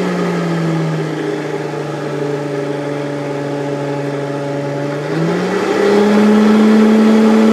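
Champion 1911 variable-speed forge blower, electric-motor driven, running with a steady whine. About a second in it has slowed to a lower, quieter pitch, holds there, then speeds back up about five seconds in to a higher, louder whine. With its grease fittings freshly filled it runs smooth, without rattle.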